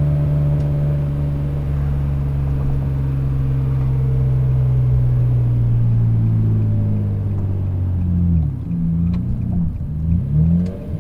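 Single-turbo Nissan 350Z's V6 engine running under a steady load. About eight seconds in, the revs start dipping and rising several times in quick succession.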